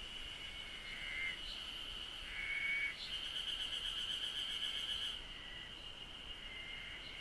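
Cicadas singing: a steady high drone, with a louder pulsing buzz from about three to five seconds in and shorter calls coming and going.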